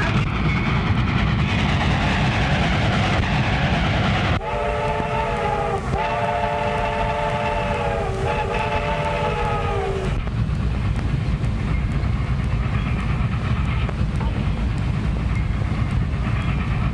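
Steam locomotive whistle blowing a chord of several tones in three nearly joined blasts, starting about four seconds in and ending about ten seconds in, over a steady low rumble.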